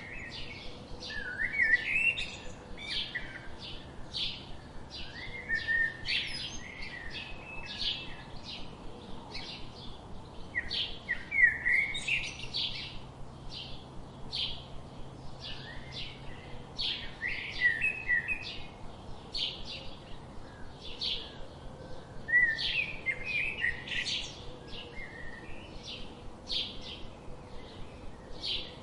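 Small birds chirping: an unbroken run of short, high chirps at about two to three a second, with louder bursts of squeaky twittering about five times.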